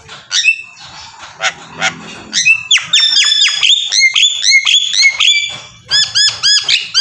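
Rapid series of loud, high-pitched animal calls, each a short arched note, about three to four a second, with a brief pause before a last run near the end.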